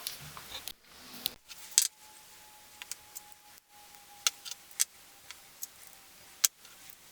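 Scattered sharp metallic clicks and clinks of hand tools and engine parts being handled during engine assembly, with a few abrupt cuts in the sound. A faint steady tone runs under the middle of it.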